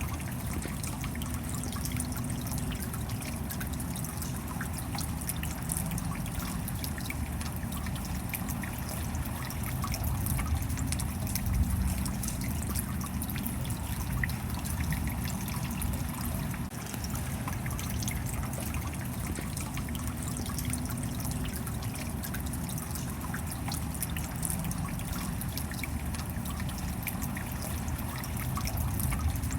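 Steady rain falling, with many fine drop impacts.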